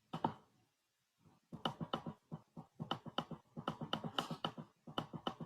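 Rapid sharp clicks from a computer, one near the start and then quick runs of several clicks a second from about a second and a half in.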